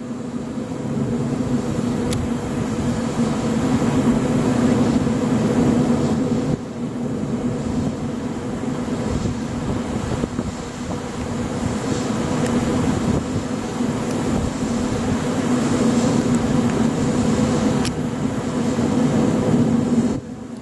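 Large REpower wind turbine running: a steady drone with a low hum, slowly swelling and easing, with a sudden drop in level about six seconds in.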